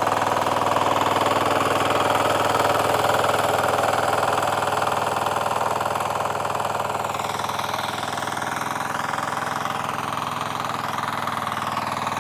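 VST FT80 power weeder's 8 HP diesel engine running steadily under load as its tines till the soil.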